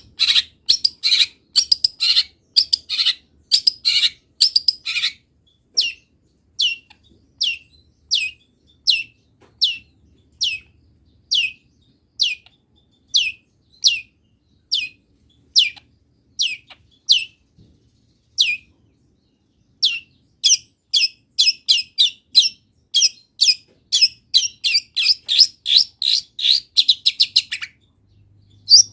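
Long-tailed shrike (cendet) singing a mimicry-filled song of sharp, downward-sweeping notes. It opens with dense chatter, settles into single notes a little under a second apart, then speeds into a rapid run near the end.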